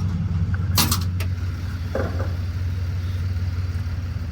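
A steady low mechanical hum, like an engine running at idle, with a sharp metallic clank a little under a second in and a short duller knock at about two seconds.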